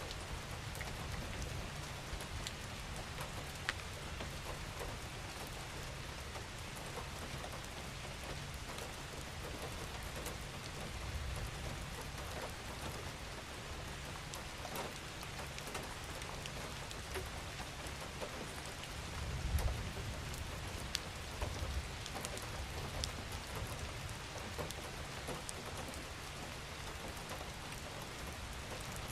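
Gentle steady rain falling on a surface, an even hiss with individual drops ticking through it, and a brief low swell about two-thirds of the way in.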